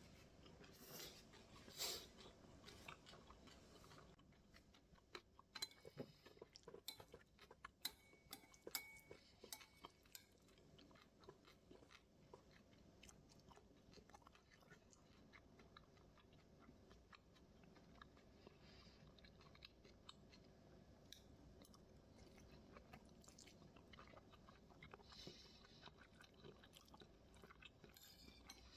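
Faint close-up chewing of homemade bibimbap, with soft crunches. A run of sharper clicks and crunches comes about five to ten seconds in.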